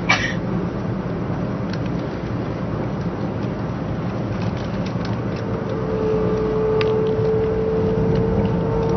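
Cabin running noise of a 500 series Shinkansen at speed: a steady rumble of wheels, track and air. There is a brief knock right at the start, and a steady humming tone comes in about halfway through as the noise grows a little louder.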